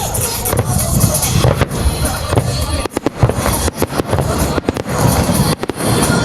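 Fireworks shells bursting in quick succession, many sharp bangs over a continuous crackling rumble, with music playing along.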